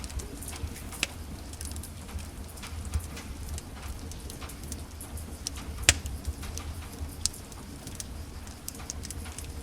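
Wood fire in a fireplace crackling: scattered sharp pops and snaps over a low steady rumble, with one loud pop about six seconds in.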